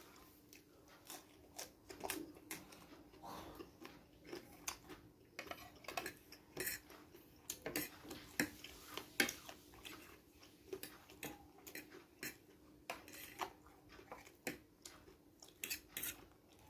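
Close-up eating sounds: utensils clicking and clinking irregularly against a bowl of fried noodles, mixed with chewing.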